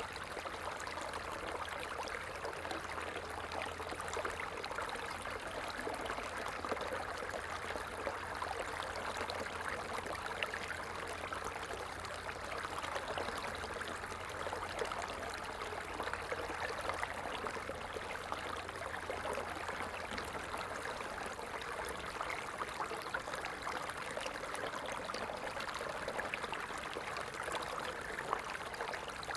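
Stream water flowing and splashing steadily, an even rushing with a fine crackle of small splashes.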